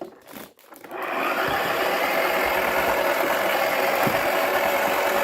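Toy washing machine's small electric motor switched on after a few clicks, starting about a second in and running steadily with a whirring hum, turning its drum with a cricket ball inside.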